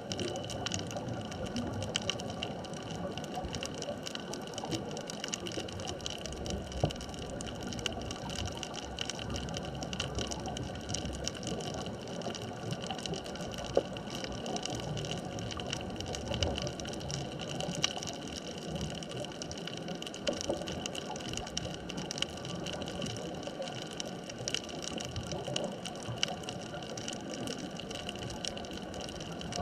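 Underwater ambient noise at a sunken bridge-span reef: a steady hiss with a few constant tones running through it, dotted with fine crackling clicks and an occasional sharper click.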